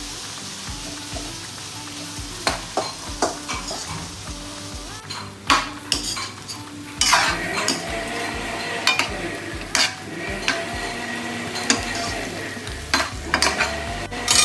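Chicken pieces frying in oil in a metal wok, sizzling steadily, while a metal ladle stirs them and clicks and scrapes against the pan. The sizzling gets louder about seven seconds in.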